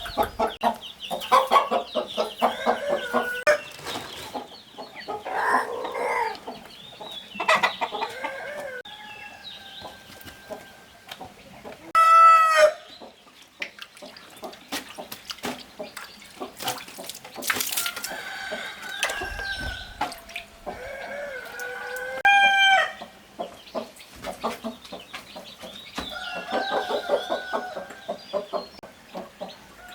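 Chickens clucking and calling on and off, with two loud, short calls standing out, one near the middle and one about two-thirds of the way through.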